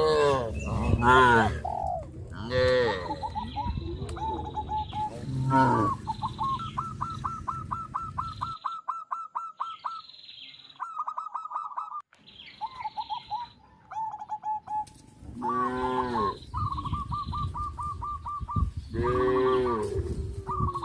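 Cattle mooing several times, loudly at the start and twice more near the end. Between the moos a bird chirps in fast runs of short, repeated high notes.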